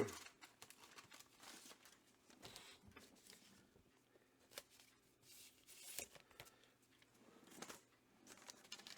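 Mostly near silence, with a few faint, brief rustles and crinkles of comic books being handled.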